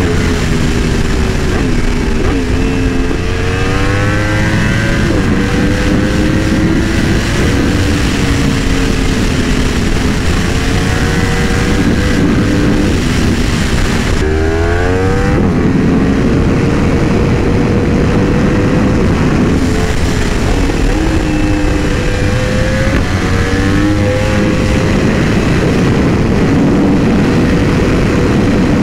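Yamaha YZF-R1M's crossplane inline-four engine under riding load. The note rises and falls with throttle and gear changes, climbs sharply about fourteen seconds in, then holds a fairly steady pitch.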